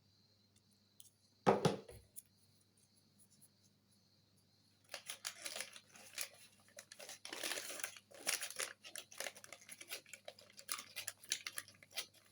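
A single knock about a second and a half in, then from about five seconds on an irregular run of crinkling and rustling, as of plastic packaging being handled while the epoxy glue is got out.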